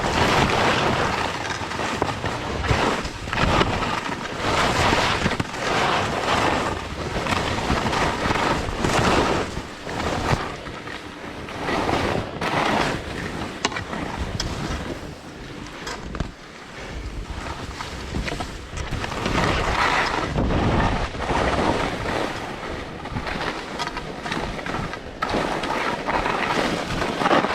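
Skis hissing and scraping on snow during a downhill run, swelling and fading with each turn, mixed with wind rushing over the GoPro's microphone.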